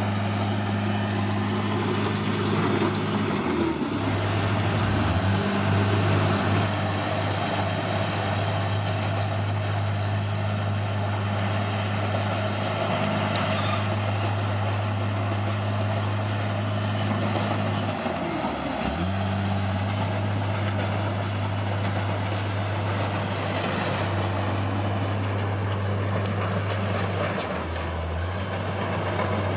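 Caterpillar D6R bulldozer's diesel engine running steadily, its pitch dipping and recovering briefly three times.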